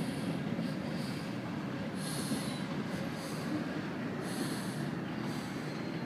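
A freight train of tank cars rolling past, with a steady rumble of wheels on rail and a short high hiss recurring about once a second.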